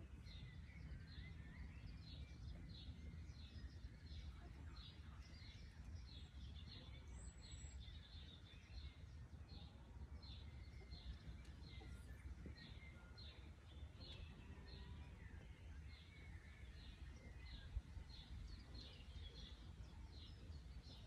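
Faint outdoor ambience: birds chirping, short high notes repeated about twice a second, over a low steady background rumble.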